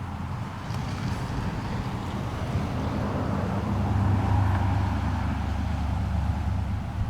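Pickup truck engine and road noise while driving: a steady low hum that swells a little towards the middle.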